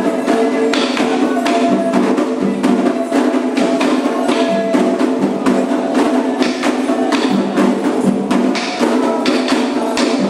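Candomblé ritual percussion: atabaque hand drums struck in a fast, even rhythm, with a ringing iron bell (agogô) keeping time over them.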